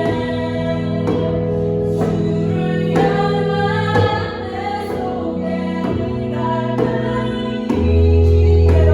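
Worship song: a woman singing over piano accompaniment, with djembe strokes about once a second keeping the beat. A deep bass note swells in near the end and makes the music louder.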